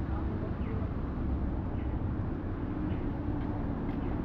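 Rainy downtown street ambience: a steady rumble of traffic under an even hiss. A faint short chirp repeats about once a second.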